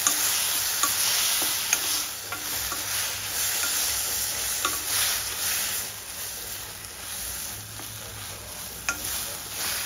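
Drumstick and tomato pieces sizzling in oil in a steel kadai while being stirred with a wooden spatula, with scraping strokes and small clicks against the pan. They are being sautéed with salt until the tomatoes soften. The sizzle is louder in the first half and eases off after about six seconds.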